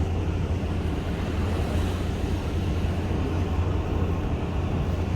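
Steady low drone of a boat under way at sea, with an even rushing of wind and water over it.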